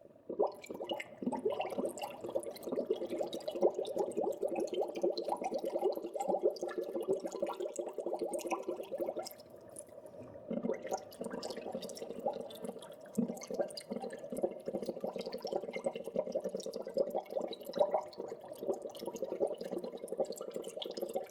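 Wet, dripping and gurgling water noise full of small crackles, dipping briefly about ten seconds in.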